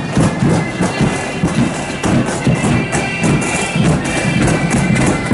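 Marching band playing in a street parade: drums beating steadily under a high, sustained melody line.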